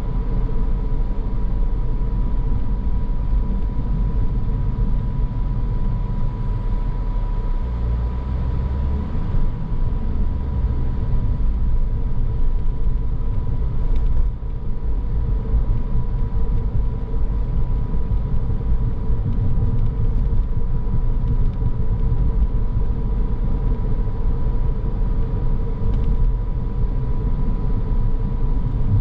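Car driving on a road: a steady low rumble of tyres and engine, with a faint steady whine above it.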